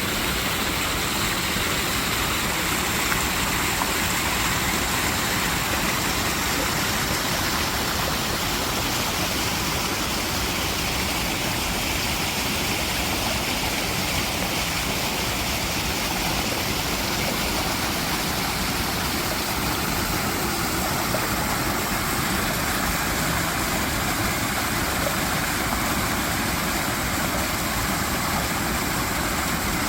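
Mountain valley stream water flowing in a steady, unbroken rush.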